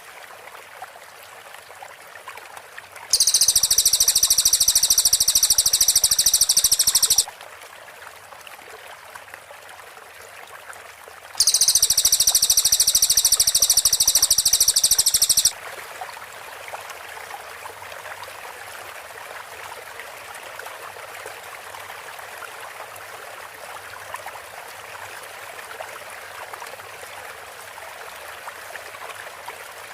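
Cililin bird song: two bursts of rapid, high-pitched repeated notes, each about four seconds long and a few seconds apart, the tight 'shot'-like delivery prized for training shamas. A steady sound of running water lies underneath and carries on alone after the second burst.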